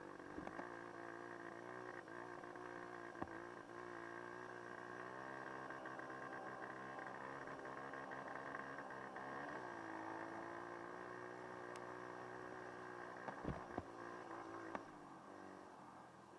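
Dirt bike engine running at a moderate pace, its pitch rising and falling with the throttle and dipping once midway, with a few sharp knocks near the end.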